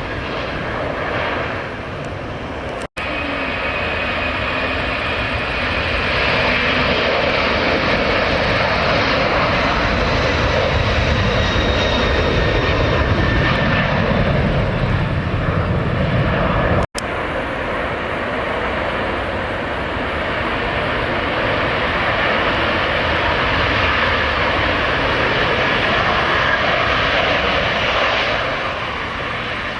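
Jet airliner engines running loud and steady, building about six seconds in and easing near the end, with two split-second dropouts about three and seventeen seconds in.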